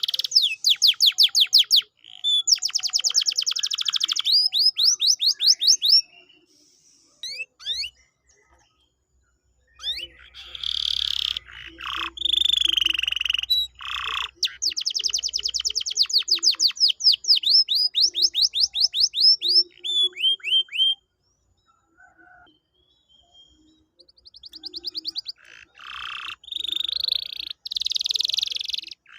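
Canary singing: fast trills of rapidly repeated down-sweeping notes alternating with harsher buzzy phrases, broken by two short pauses, one about a quarter of the way in and one past two-thirds.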